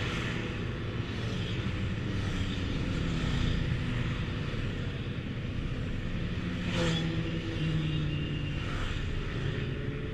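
Honda Deauville 700 motorcycle engine running steadily while riding, with wind noise on the onboard microphone.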